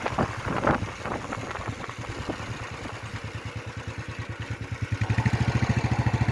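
Motorcycle engine running while riding, with an even, rapid exhaust pulse. It grows louder about five seconds in.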